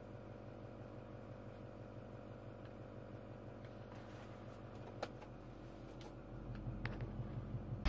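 Faint, steady low hum of a tow vehicle's engine idling, heard from inside the cab. A couple of light clicks sound about five and seven seconds in, and the hum grows slightly louder near the end.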